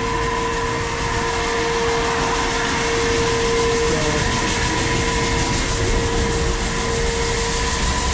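Grain bin conveying machinery running steadily: the bucket elevator and the freshly started underfloor auger make a constant mechanical hum with a steady whine over a broad rumble. The auger is running before any corn has reached the spout.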